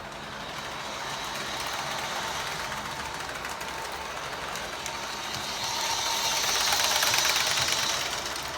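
Model train running along its track, a steady rolling and motor hum that grows louder to a peak a little past the middle as it passes close, then begins to fade.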